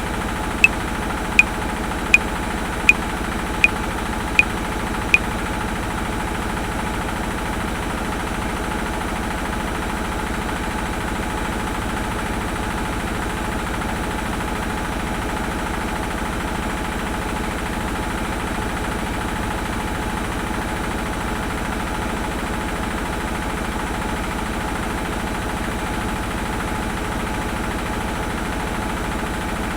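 Metronome clicking at 80 beats per minute, a sharp click about every three-quarters of a second, stopping about five seconds in. Under it a washing machine runs with a steady hum.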